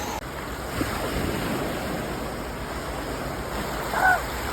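Sea waves washing on the shore in a steady rush, with wind buffeting the microphone. A short voice-like call sounds about four seconds in.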